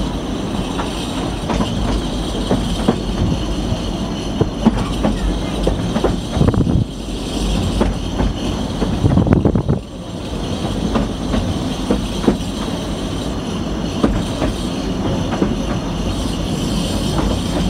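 A narrow-gauge heritage railway carriage on the move, heard from on board: a steady rumble from the running gear, with wheels clicking and knocking over the rail joints. The noise swells louder for a moment about halfway through.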